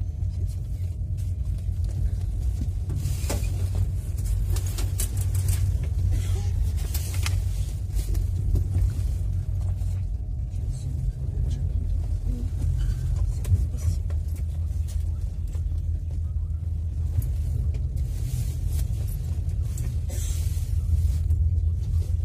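Passenger railway coach in motion, heard from inside: a steady low rumble of the wheels running on the track, with a few scattered clicks and rattles.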